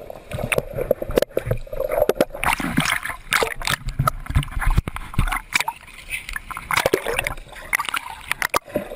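Sea water splashing and gurgling close to the camera, broken by many sharp knocks and bumps.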